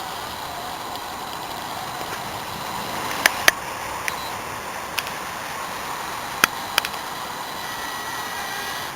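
Electric motor and gearbox of a home-built RC trial truck whining steadily as it drives, the pitch wavering with the throttle. Six sharp clicks come through in the middle of the stretch.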